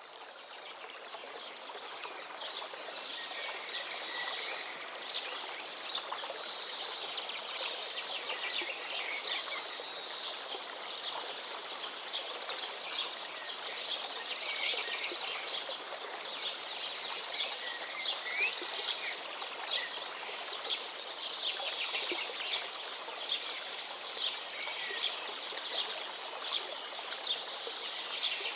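Steady hiss of falling rain or running water with many birds chirping and calling over it, fading in during the first couple of seconds.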